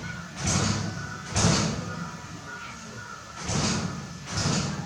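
A polar bear banging on the door of its enclosure, wanting it opened: four heavy bangs in two pairs, the door rattling and ringing briefly after each.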